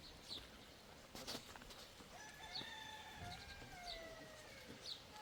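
A rooster crowing: one long call lasting about three seconds, sinking slowly in pitch toward the end, over short chirps of small birds.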